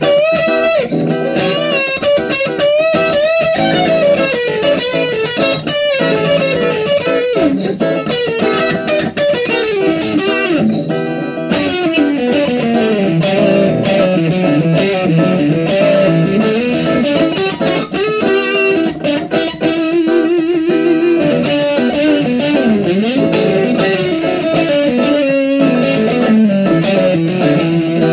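Guitar music: a busy melodic line whose notes glide up and down in pitch, over a steady accompaniment.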